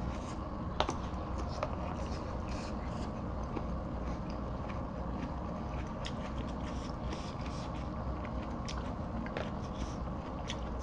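Close-miked eating sounds: a person chewing food, with many small wet mouth clicks and a sharper click about a second in, over a steady low hum.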